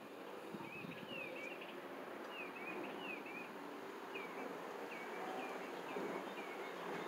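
A small bird chirping in short repeated phrases of quick, high sweeping notes, over a low steady buzzing hum.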